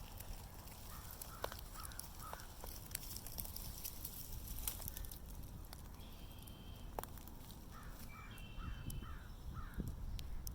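Wild birds calling outdoors: a run of short, quickly repeated calls about a second in and again near the end, with a higher thin whistled note between them, over faint clicks and rustling.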